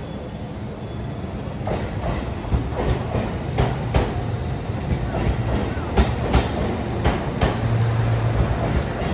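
Train running on the rails and gathering speed, heard from on board: a low drive hum and wheel rumble, with irregular sharp clacks as the wheels cross rail joints and points.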